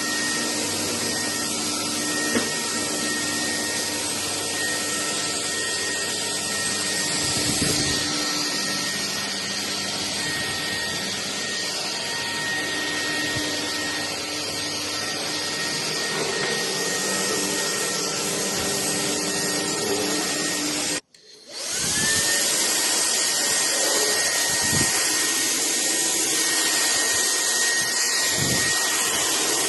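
Bulelink cordless stick vacuum running steadily with a high motor whine. About two-thirds of the way through it cuts out for a moment, then starts again, its whine rising back to pitch.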